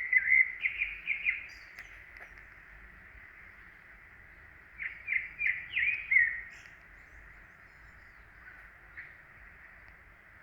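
A songbird singing two short phrases, each a quick run of several down-slurred whistled notes, the second about five seconds after the first, over a steady faint background hiss.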